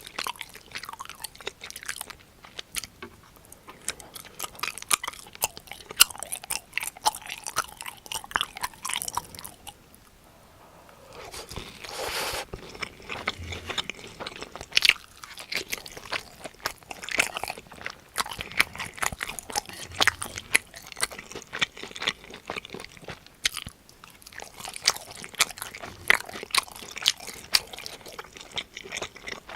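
Close-miked biting and chewing of crunchy fried cheese pork cutlet breading: a dense run of sharp crunches and mouth clicks, briefly quieter about a third of the way in, then a short rush of noise before the crunching resumes.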